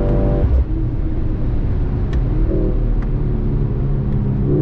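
Mercedes-AMG C63 S E Performance's 2.0-litre turbocharged four-cylinder under hard acceleration, heard from inside the cabin. The engine note drops sharply about half a second in, then climbs again.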